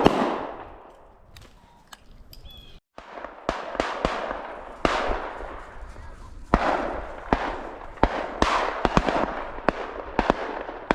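Dry grass and weeds swishing and crackling against legs and clothing as a hunter walks through upland cover, one swish about every stride, with scattered sharp snaps of stems. The sound drops out briefly about three seconds in.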